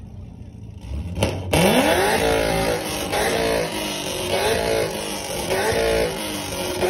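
Car engine revved hard from idle about a second and a half in, then blipped up and down repeatedly, roughly once a second.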